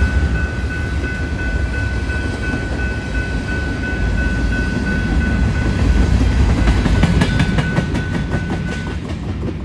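Union Pacific freight train rolling past at close range: a loud, steady low rumble of wheels and cars on the rails, with a thin high steady tone over it that stops near the end. A quick run of clicks from the wheels passing over rail joints comes about two-thirds of the way in.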